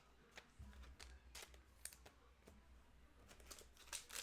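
Faint clicks and light rustles of trading cards being handled, a few scattered taps with more near the end.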